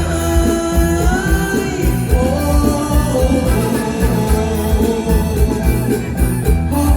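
Live mor lam band playing, with a singer's voice over a steady, driving drum beat.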